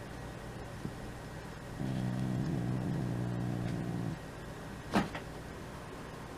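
Domestic cat growling: one low, steady growl lasting about two seconds, a sign that the cat is annoyed at a dog trying to play with it. A sharp click follows about a second later.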